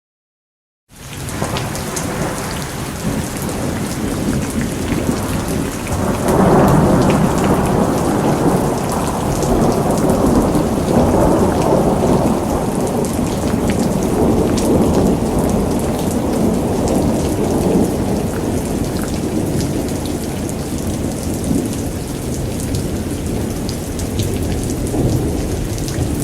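Thunderstorm: steady heavy rain with rolling thunder. It starts suddenly out of silence about a second in, and the thunder swells into a loud, sustained rumble about six seconds in.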